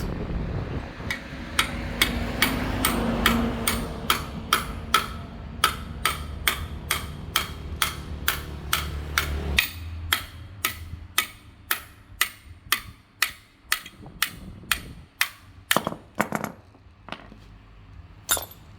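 Hammer blows struck in a steady rhythm, about two or three a second, during work on a water pump. The blows stop, then a few single strikes follow near the end.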